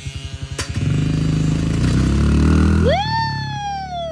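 A small kids' dirt bike idling with an even pulse, then revved hard for a start off the gate about a second in, with a sharp click just before. Near the end a loud tone rises quickly, then glides slowly down.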